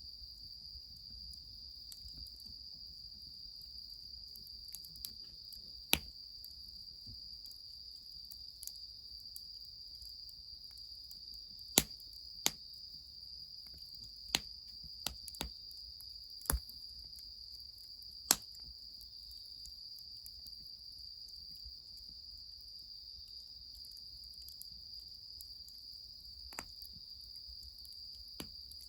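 Crickets trilling steadily as a high, even drone, with about eight sharp, isolated cracks or pops scattered through the first two-thirds.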